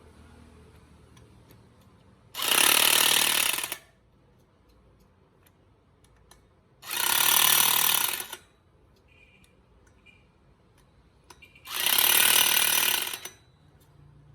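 Impact wrench run in three bursts of about a second and a half each, tightening the bolts of a motorcycle's rear sprocket, with faint clicks of handling in between.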